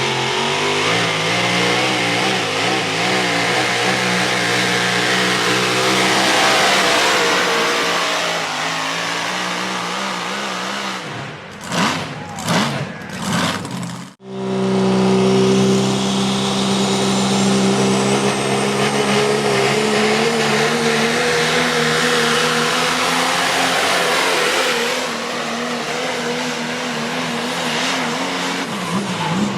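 4x4 pulling truck engine held at high revs under full load, its pitch wavering as it pulls. About ten seconds in it falls away into a few short revs, then breaks off abruptly, and another long full-throttle pull follows.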